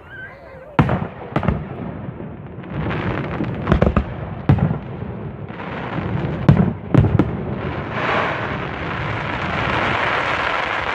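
Aerial fireworks display: a string of loud shell bursts, several in quick pairs, over the first seven seconds. From about eight seconds in they give way to a dense, continuous rush of noise that builds toward the end.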